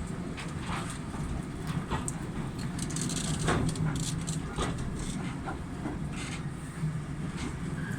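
A train running on the Severn Valley Railway: a steady low rumble with irregular clicks and knocks of the wheels on the track.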